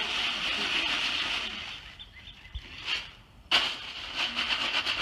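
Ice cubes and rock salt rattling in a plastic bag shaken by hand to freeze ice cream in a sealed inner bag. The shaking dies away about two seconds in, with a few faint chirps, then starts again abruptly about three and a half seconds in.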